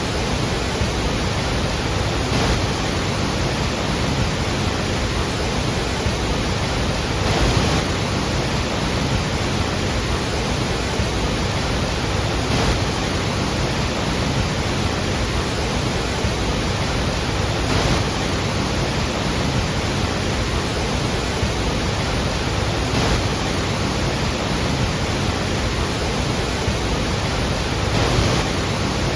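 Steady rushing roar of a large waterfall, falling water at the Iguazu Falls, with a faint swell about every five seconds.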